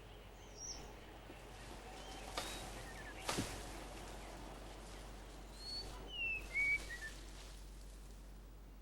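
Seychelles magpie robin singing: a few short whistled notes early on, then a descending run of clear whistles about six seconds in. Two brief sharp clicks come near the middle.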